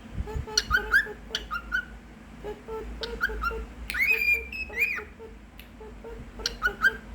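Cockatiel whistling its song: a string of short chirped notes, then about four seconds in two longer whistles that rise, hold and fall, then more short chirps near the end.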